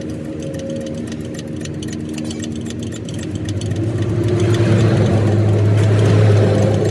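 A motor vehicle's engine running steadily, growing louder from about halfway through.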